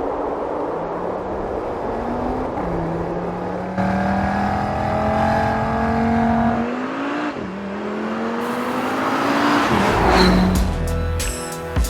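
Audi RS Q3 Sportback's 2.5-litre turbocharged five-cylinder engine accelerating hard through the gears, its pitch climbing and then dropping at two upshifts. About ten seconds in, a rising rush of noise leads into music with a steady beat.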